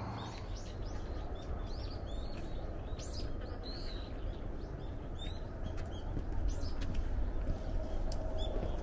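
Small birds chirping over and over in quick, short calls, with a steady low rumble underneath.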